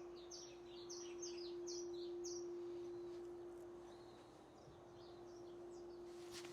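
A bird chirping a quick run of short falling notes, busiest in the first couple of seconds and sparser after, over a single steady ringing tone that holds throughout. A short brushing noise comes near the end.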